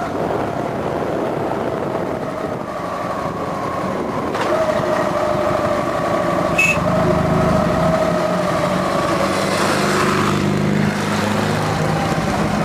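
Old Russian Ural motorcycle's engine running as the bike comes through. Its low engine note grows stronger about halfway through.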